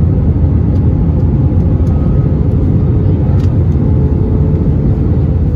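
Steady low roar of an Airbus A321's engines and airflow as heard inside the passenger cabin, with a faint steady hum above it.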